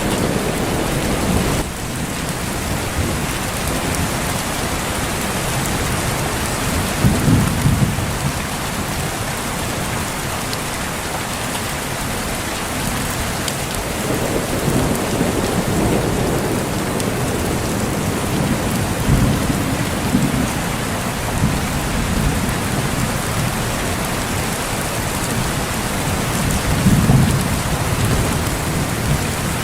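Heavy rain falling steadily, with low rolls of thunder rumbling four times: about seven seconds in, again around fifteen and twenty seconds, and near the end.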